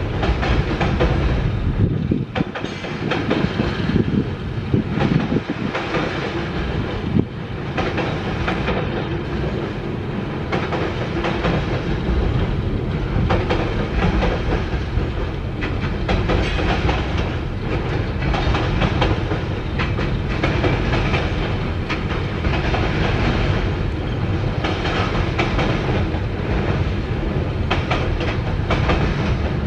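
Freight train cars rolling across a steel girder railway bridge: a continuous rumble with frequent wheel clacks.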